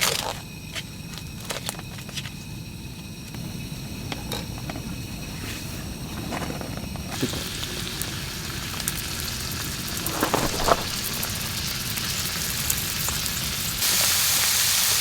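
Campfire crackling with sharp pops, under a steady hiss that grows louder about seven seconds in and again near the end.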